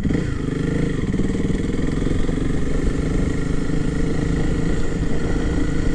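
Honda CRF300L's single-cylinder engine running at a steady cruising speed while the bike is ridden, with an even, unchanging note.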